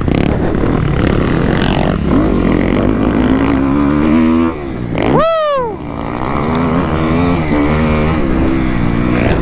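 Kawasaki KX250F single-cylinder four-stroke dirt bike engine running under throttle, its pitch climbing over the first few seconds. About five seconds in it gives one sharp rev that rises and falls quickly, then it settles back to running with varying revs.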